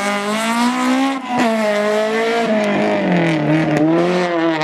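Rally car engine revving hard. The pitch climbs, drops sharply for a moment about a second in, then sags and climbs again.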